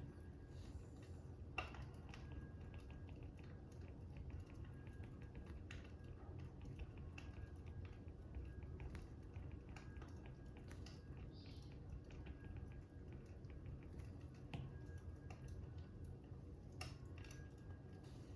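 Fire crackling: a faint steady low rumble with many small scattered pops and a few sharper cracks.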